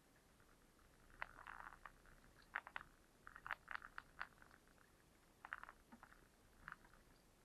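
Faint, irregular clicks and ticks in small clusters, a few a second, over a low background hiss.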